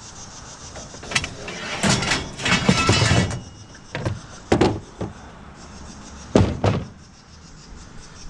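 Scrap metal being pulled from a pile and handled: a run of knocks and scraping about two to three seconds in, then separate clanks, two of them close together near the end.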